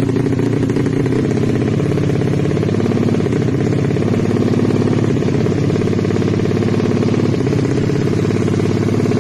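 Race-tuned Yamaha Jupiter Z underbone motorcycle's single-cylinder four-stroke engine running steadily, with a rapid, even beat and no revving.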